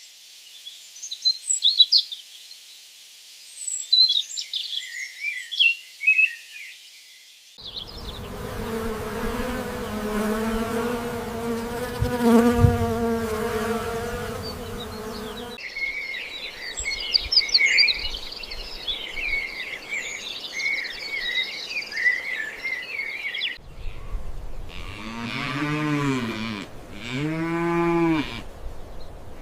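A patchwork of farmyard ambience: high chirping birdsong, then a long low animal call, more chirping birdsong, then a run of pitched animal calls, each rising and falling, about one every second and a half near the end.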